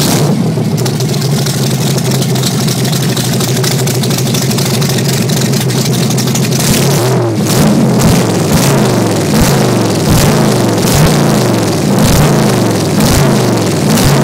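Loud carbureted V8 in a 1931 coupe hot rod, running through an open side exhaust pipe: a steady idle, then from about seven seconds in the throttle is blipped by hand at the carburetors over and over, the engine revving up and dropping back about once or twice a second.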